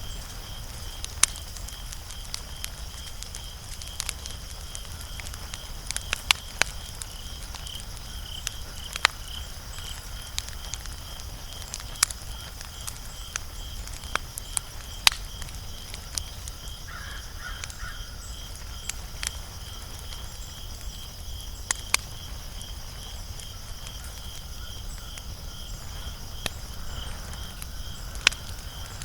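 Wood fire crackling, with irregular sharp pops and snaps over a low steady rumble of burning. A faint high pulsing trill runs steadily underneath.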